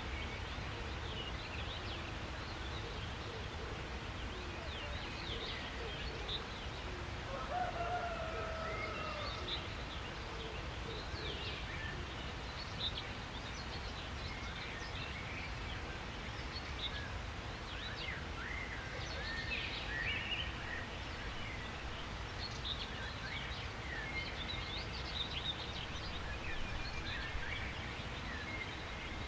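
Many small songbirds chirping and trilling over a steady low rumble of outdoor background noise, with a lower warbling call about seven seconds in.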